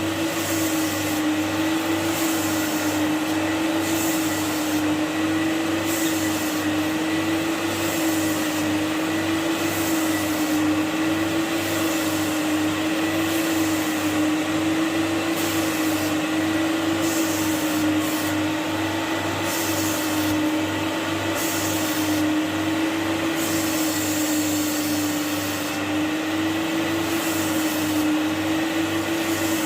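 Carpet-cleaning extraction machine's vacuum motors running steadily with a slightly wavering hum, and a high hiss that comes and goes every second or two as upholstery is cleaned.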